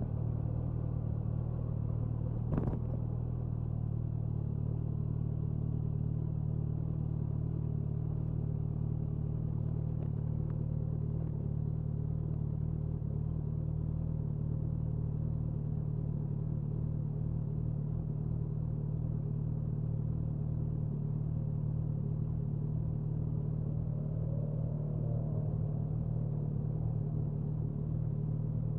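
Suzuki Hayabusa's inline-four engine and exhaust running at a steady cruising speed, its pitch holding level throughout. A single sharp click cuts through about two and a half seconds in.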